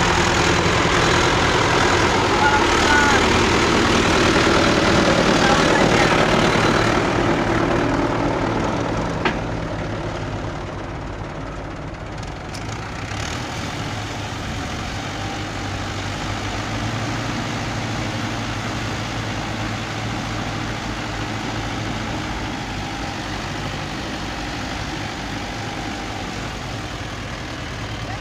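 Heavy vehicle engine running steadily, louder for the first eight seconds or so, then settling to a quieter idle about nine seconds in, with a single sharp click as it drops.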